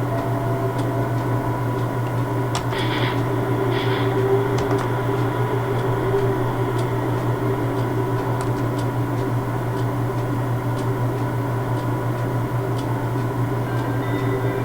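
Steady machine hum of standing railway equipment, with two short hisses of air a few seconds in and faint scattered clicks.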